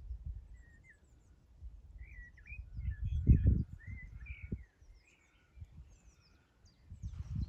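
Small birds chirping and singing, with a run of warbling notes through the first five seconds and short high chirps throughout. A low rumble on the microphone about three seconds in is the loudest sound.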